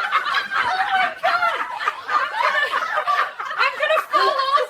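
A person laughing hard, an unbroken stretch of giggling and snickering with no words.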